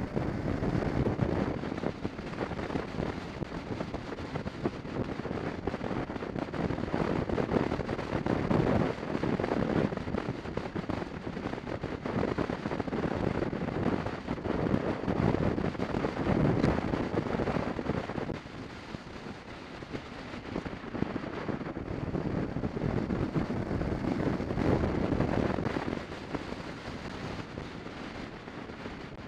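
Wind buffeting the microphone of a moving motorcycle, with the bike's running noise beneath, rising and falling in waves and easing off about two-thirds through and again near the end.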